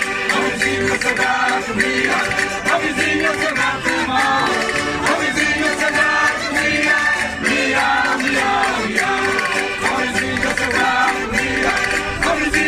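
Concertinas playing a folk tune, with voices singing along.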